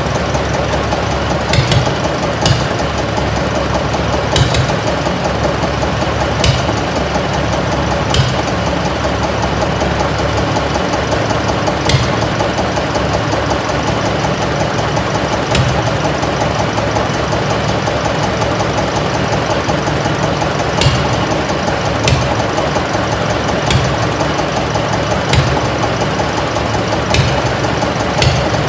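Armstrong Siddeley diesel engine on a Massey baler running steadily, with sharp, irregular knocks standing out every one to four seconds.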